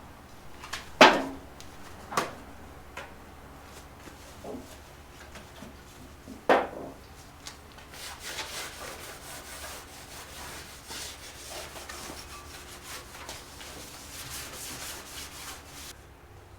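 A few sharp knocks, then a long run of quick back-and-forth rubbing over bare sheet metal: the metal being wiped down with paint thinner to clean it before primer.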